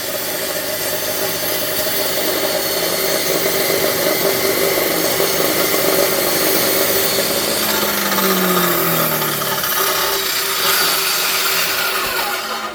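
Small electric saw running and cutting through a thick log, its motor sound continuous until it stops abruptly at the end.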